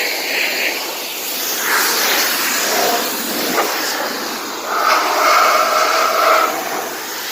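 Pressure washer spray hissing steadily against a car's body. From about five seconds in, a steadier higher tone joins it for a second or two.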